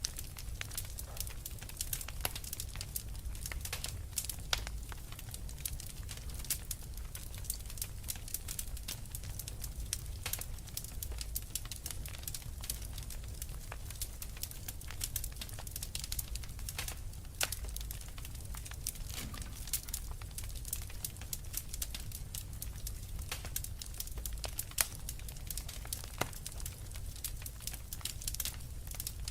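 Fireplace fire crackling: frequent irregular sharp pops and snaps over a steady low background.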